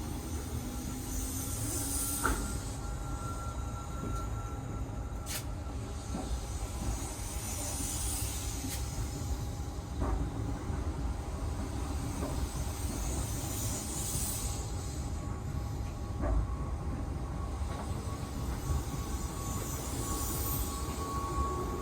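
A Keihan 3000-series train standing still: a steady hum from its onboard equipment, with a high hiss that swells roughly every six seconds and a few faint clicks.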